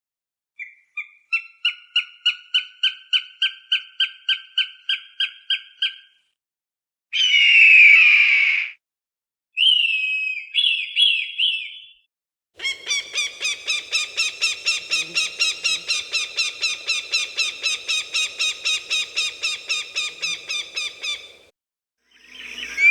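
Falcon calls in several bouts: a run of about twenty sharp, quick calls, one harsh scream, a few short falling calls, then a long fast chattering series of about six calls a second that stops shortly before the end.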